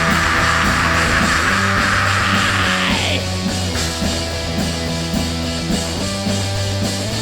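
A punk rock band playing live with no vocals: a steady bass line under drums hit about twice a second. A loud hissing wash of noise sits over the first three seconds and then stops abruptly.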